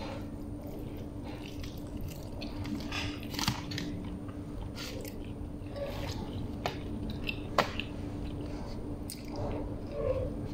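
A person biting into and chewing a toasted Arabic flatbread (khubz) sandwich: irregular wet chewing and crunching, with two sharper crunchy clicks partway through.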